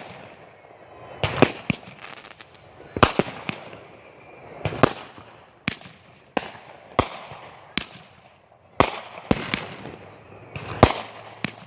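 Consumer firework cake firing its shots in sequence: a dozen or so sharp bangs, roughly one a second, some in quick pairs, each trailing off.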